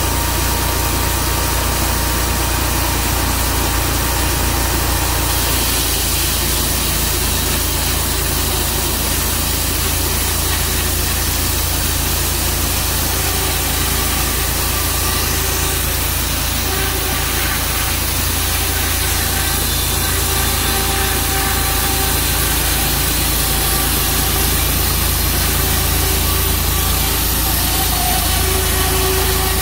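Tru Cut sawmill running with its engine at a steady drone, growing brighter and hissier about five seconds in.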